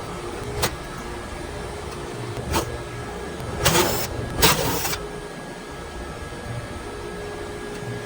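Refrigeration vacuum pump running steadily while it evacuates the air-conditioning system. Two sharp clicks come in the first few seconds, and two short, loud hissing bursts come around the middle.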